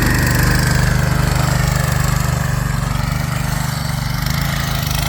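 Vehicle engine running steadily under load, with a faint whine that falls in pitch over the first few seconds.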